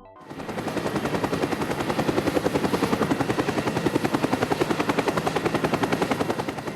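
A rapid, evenly repeating chopping sound effect, about ten pulses a second, swelling in at the start and easing off near the end.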